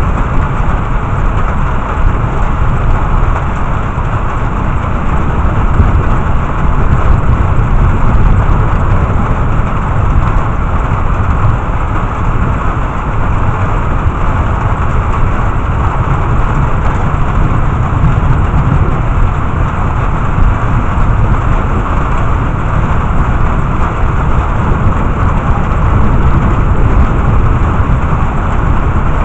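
Heavy rain falling steadily in a thunderstorm, with a constant low rumble underneath and no distinct thunderclaps.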